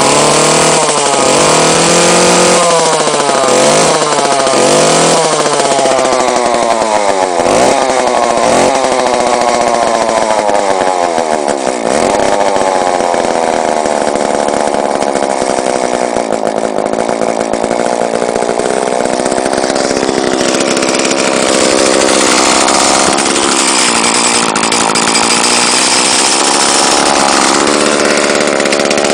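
Homelite Super 2 two-stroke chainsaw engine running loud, revved up and down about once a second for the first few seconds, then in larger swoops, and after about twelve seconds held at a steadier speed that only slowly rises and falls.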